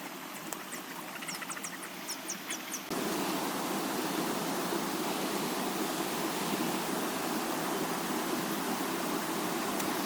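Short high chirps, then about three seconds in a steady rushing noise starts suddenly and holds, louder than the chirps.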